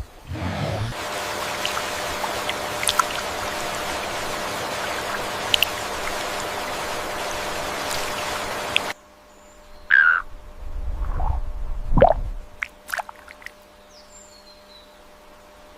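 Steady rush of running water that cuts off abruptly about nine seconds in. A quieter natural background follows, with a few short animal calls, the loudest a low call about two seconds later.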